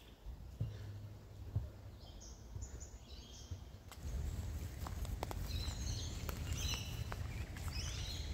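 Small birds calling over and over in short high chirping phrases, above a low steady outdoor rumble that gets louder about halfway through. A few soft thuds come in the first couple of seconds.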